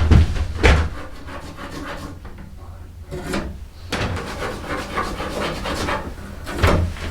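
Hand tools working a yew bow stave: several sharp wooden knocks with rubbing and scraping of wood between them.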